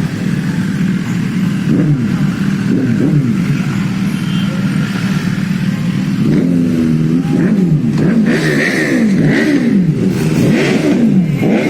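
Motorcycle engine running at a steady pitch, then from about six seconds in revved up and down again and again in quick blips.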